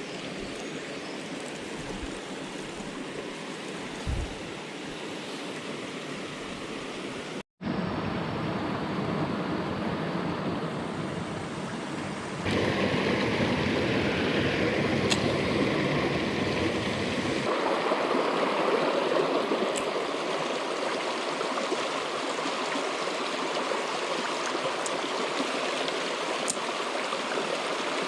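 Headwater mountain stream running over rocks, a steady rush of water. It drops out briefly about seven seconds in and comes back louder from about twelve seconds in, with a soft low thump about four seconds in.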